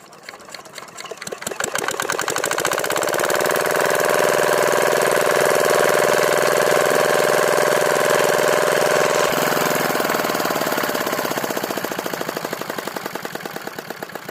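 Engine running with an even knocking beat: it grows louder over the first few seconds, holds steady, shifts in tone about two-thirds of the way through, then fades toward the end.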